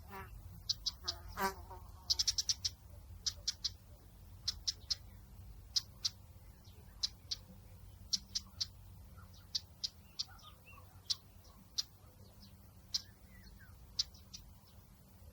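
Small birds chirping: short, high chips scattered irregularly, with a quick run of them about two seconds in and a lower warbling call at the start, over a steady low outdoor rumble.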